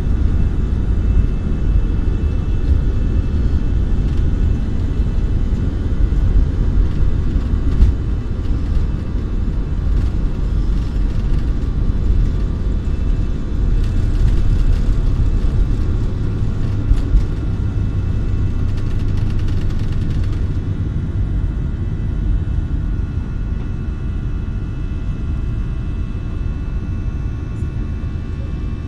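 Steady low rumble of an airliner's jet engines and airflow heard inside the cabin in the climb after takeoff, with faint steady whining tones above it. A patch of faint crackling comes midway, and the rumble eases a little near the end.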